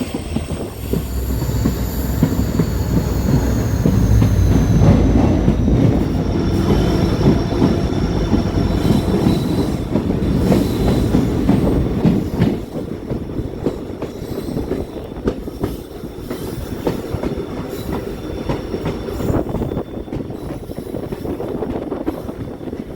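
Train running on the rails: a steady heavy rumble with a high, thin wheel squeal over the first several seconds that slowly falls in pitch. The rumble is loudest for a few seconds in the middle and eases off after about twelve seconds.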